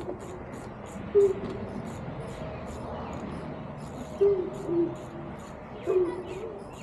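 Several short low hooting calls, the loudest a little after one second, four to five seconds and six seconds in, over steady high insect chirping at about four chirps a second.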